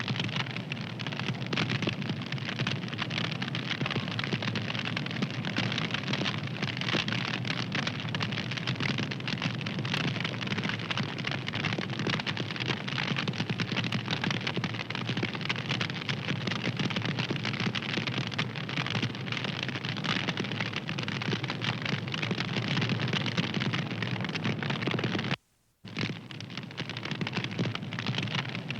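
Fire crackling continuously, a dense stream of small pops and snaps over a steady hiss. A little before the end it cuts out abruptly for about half a second, then resumes.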